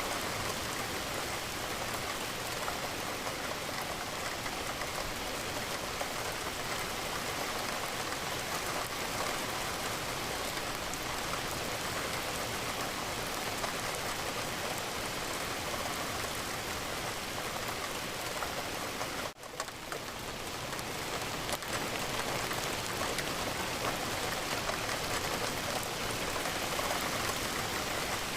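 Steady rain falling against a window, an even hiss of drops. The sound drops out briefly about two-thirds of the way through and fades back up over a couple of seconds.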